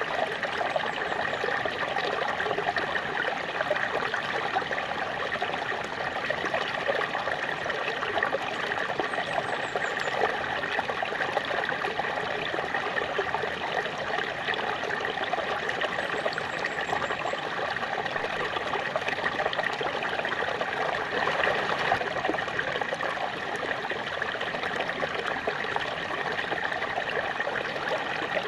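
Small waterfall splashing and running steadily, an even rushing of water with no breaks.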